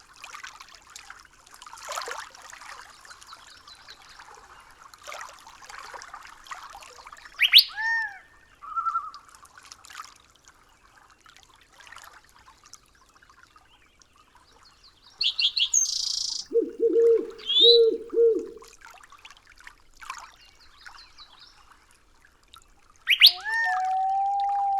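Forest soundscape with scattered bird calls: rising and falling whistled notes, a quick high chirping, and a lower call repeated three times, over a faint crackly background hiss. Near the end a rising sweep leads into a long, steady whistled note.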